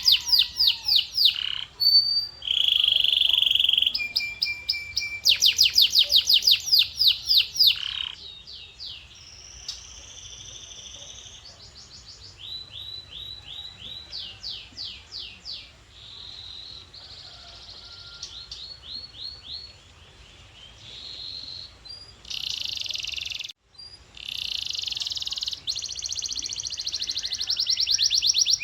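Male canary singing in fast trills and rolls, each phrase a run of identical high notes repeated many times a second. The song is loud for the first several seconds, softer through the middle, and loud again near the end after a brief break.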